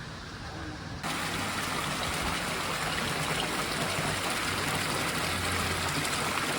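Steady rush of running water, starting abruptly about a second in.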